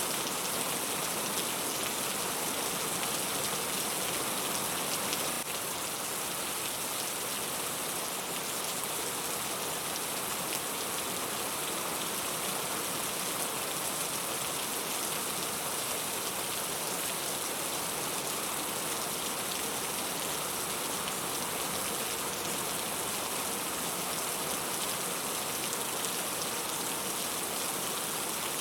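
Steady, dense rain falling, with the fine hiss of drops on a surface; it eases slightly about five seconds in.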